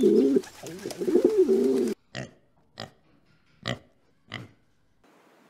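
Pigeons cooing for about two seconds, then a piglet gives four short grunts.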